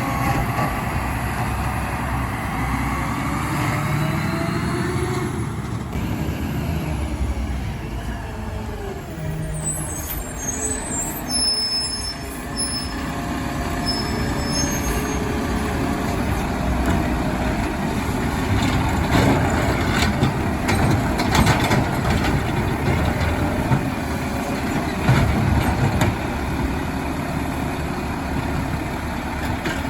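Mack LR garbage truck with a McNeilus ZR automated side loader at work: the engine runs and rises in pitch over the first few seconds, with air-brake hisses and knocks from about twenty seconds in.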